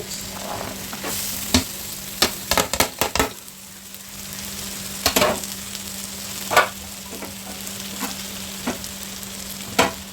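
Vegetables sizzling as they fry in melted butter in a pan, with a steady hiss. A utensil knocks and scrapes against the pan now and then as they are stirred, in a quick cluster of clicks about two to three seconds in.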